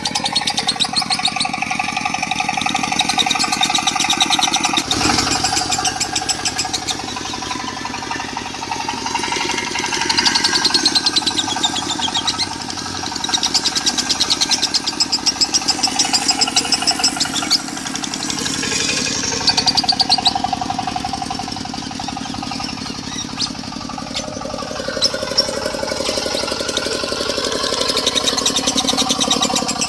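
Lovebird song in long runs of fast, high chattering trills, rising and falling in strength, mixed over a diesel engine running steadily underneath.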